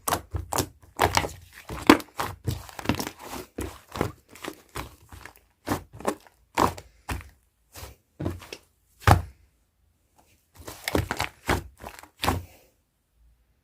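Soft yellow clay slime being squeezed, poked and stretched by hand, giving a string of sharp clicks and pops, with a brief pause about nine seconds in before another run of pops.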